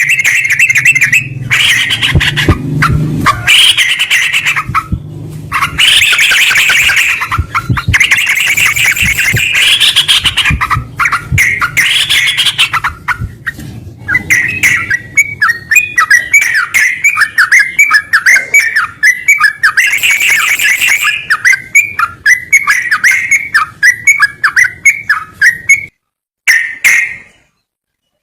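Yellow-vented bulbul (trucukan) singing loud chattering phrases, then a long run of quick repeated notes from about halfway, stopping shortly before the end.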